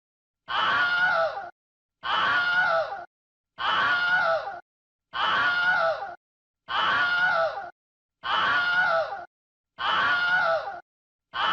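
A short human scream sound effect, the same falling scream looped over and over: each one lasts about a second and is followed by a brief dead-silent gap, giving about eight screams in a row.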